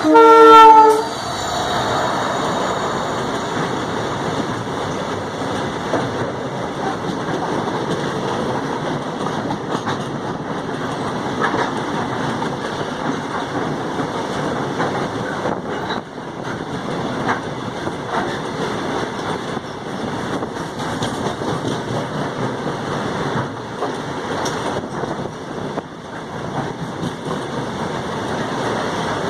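Goods train running past, its wagons rumbling and clattering steadily over the rails for the whole stretch. It opens with a short, loud horn blast about a second long.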